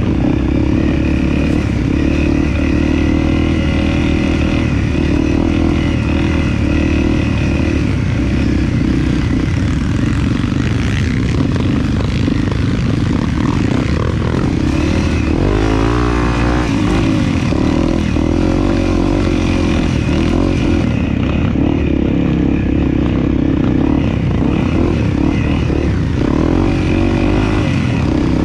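Dirt bike engine running steadily while being ridden, its pitch wavering about halfway through as the throttle changes.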